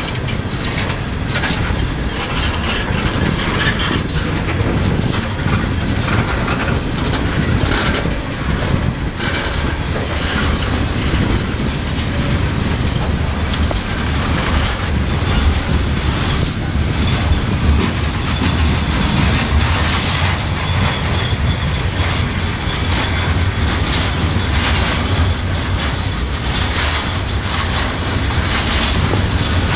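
Freight train of tank cars, covered hoppers and boxcars rolling past: a steady rumble of steel wheels on rail, with frequent clicks as the wheels cross the rail joints.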